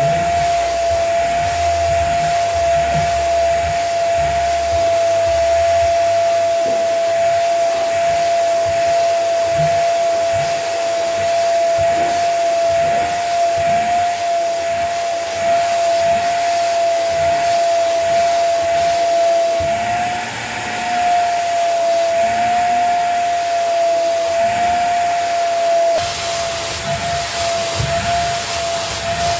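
Carpet-cleaning wet vacuum running, a steady high motor whine over a rushing suction hiss. The whine wavers a little past the middle, and the hiss turns brighter near the end.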